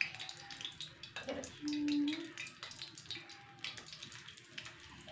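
Potato slices frying in hot ghee in a small wok, a light sizzle with many scattered sharp crackles and pops. About two seconds in, a brief low steady hum stands out above it.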